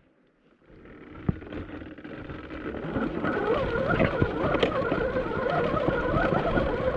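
Electric dirt bike motor whining as the bike pulls away and gains speed, the whine climbing in pitch near the end, over rumbling wind noise on the microphone. A few sharp knocks come from the bike on the rough trail.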